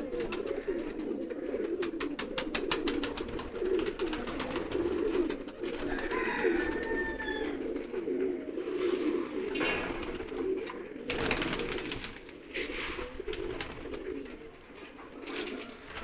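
Domestic pigeons cooing together in a continuous low murmur. There is rapid clicking in the first few seconds, a short higher chirp about six seconds in, and a brief rustling burst around eleven seconds.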